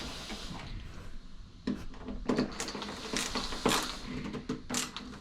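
An irregular run of sharp clicks and knocks, starting about a second and a half in, from a metal TV-mount bracket and its bolts and washers being handled and fitted to the back of a TV.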